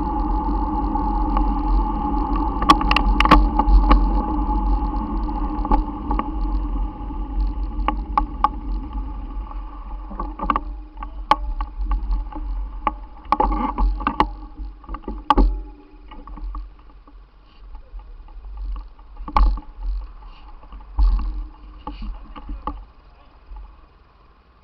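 Wind rushing over the microphone and road rumble from a moving bicycle, with scattered sharp knocks and rattles. The noise is loud at first and fades over the second half.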